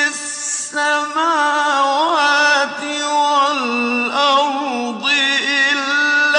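A male Quran reciter chanting in the melodic mujawwad tajweed style. He draws out long syllables with ornamented, wavering pitch turns, breaking briefly twice.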